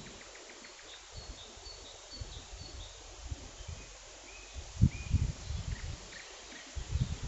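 Small songbirds chirping in short high notes and brief whistles, over low rumbles of wind on the microphone that swell about five seconds in and again near the end.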